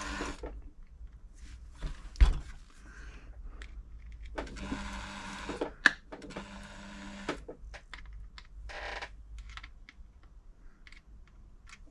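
A Pfaff-built Silver 1139 sewing machine's motor running, stopping just after the start and running again for about three seconds in the middle, with light clicks and knocks of the machine being handled in between.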